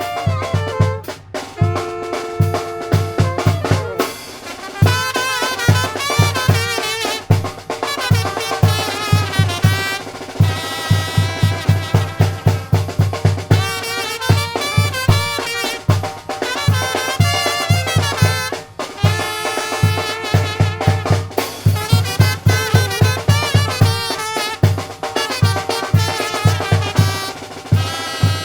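Tamborazo band music: trumpets and other brass playing a melody with vibrato over a steady tambora bass-drum beat of about four strokes a second.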